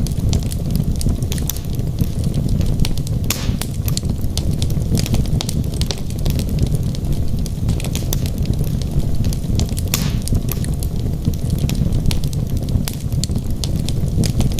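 Wood fire burning in a fireplace: a steady low rumble of flames with frequent sharp crackles and pops from the logs, two of them louder, about three and a half seconds in and about ten seconds in.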